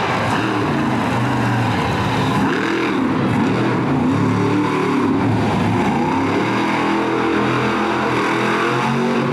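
Monster truck engine revving up and down repeatedly under hard throttle, loud and continuous.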